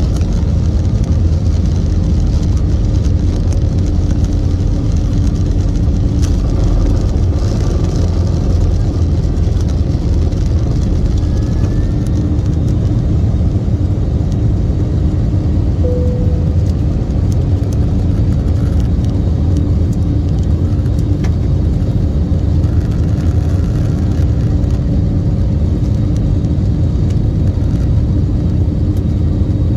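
Airliner jet engines and airflow making a steady, loud low rumble with a faint constant hum, as heard inside the cabin.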